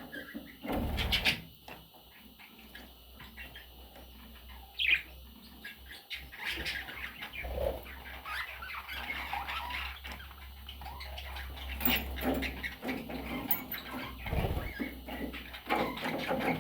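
Pet budgerigars chirping and chattering in many short calls, busier in the second half, with a few short low thumps mixed in.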